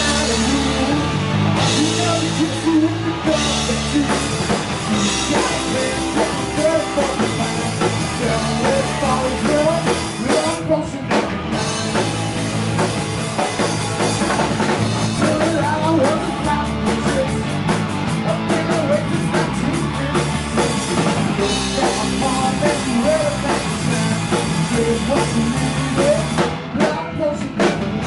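Live rock band playing with drums and singing, heard loud and full.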